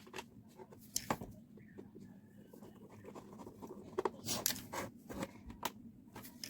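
Small clicks and knocks of screws, nuts and plastic fan parts being handled and fitted by hand, busiest about four to five and a half seconds in, over a faint steady low hum.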